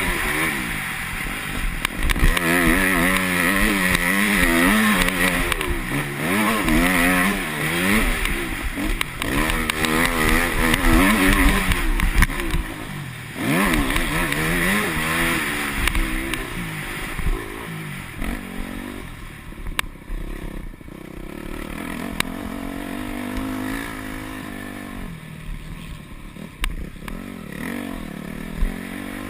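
Yamaha YZ250F single-cylinder four-stroke motocross engine revving up and falling off again and again as the bike is ridden hard. From about two-thirds of the way through it drops to a lower, quieter, steadier run, with a few sharp knocks.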